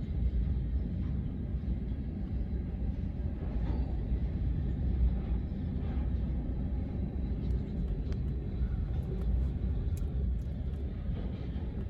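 Freight train cars rolling past as the train pulls out, a steady low rumble of wheels on rail with a few faint ticks about two-thirds of the way through.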